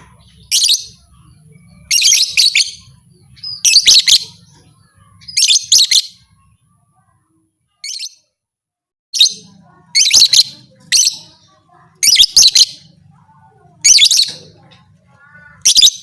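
Lovebird giving bursts of shrill, rapid chirping about every one to two seconds, with a couple of seconds of dead silence in the middle. This is the excited chatter kept as a lure call to stir other lovebirds into a fighting mood.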